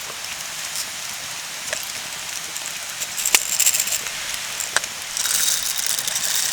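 A wood campfire crackling with sharp scattered pops over a steady hiss of rain, with two stretches of denser hissing about three and five seconds in.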